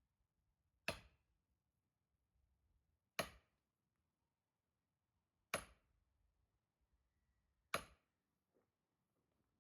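Axe striking a log while splitting firewood: four sharp chops about two seconds apart.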